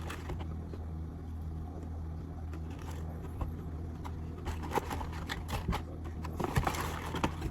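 Steady low mechanical hum, with light clicks and rustling of food packaging from about four and a half seconds in.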